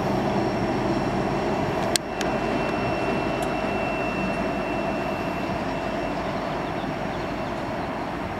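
Union Pacific manifest freight train departing, its diesel locomotive running and the cars rolling with a steady rumble and a thin high-pitched whine that fades out about six seconds in. A sharp click about two seconds in is followed by a slight drop in level.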